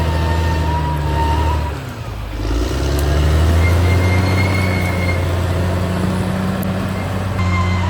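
Caterpillar D6R XL bulldozer's diesel engine running. Its note drops briefly about two seconds in and builds back up, with a thin high whine coming and going over it.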